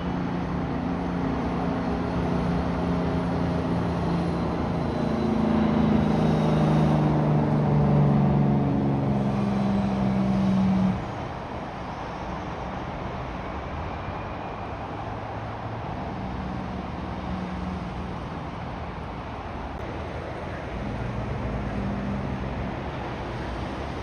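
Heavy truck's diesel engine passing close by, its engine note climbing and growing louder before cutting off suddenly about eleven seconds in. After that, quieter road traffic with fainter engine notes from further vehicles going by.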